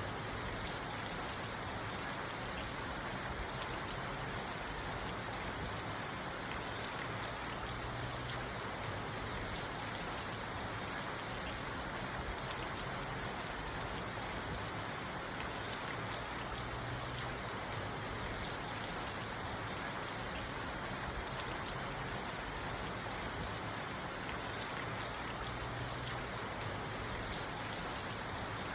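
Steady rain falling on a parked car, heard from inside the cabin: an even patter with no thunder.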